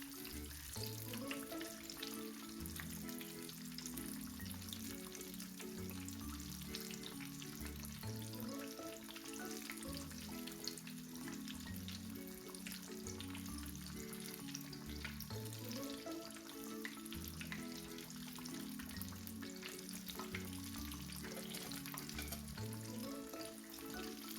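Chicken pieces deep-frying in a small pot of hot oil: a steady, dense crackle and sizzle. Background music with a repeating bass line plays underneath.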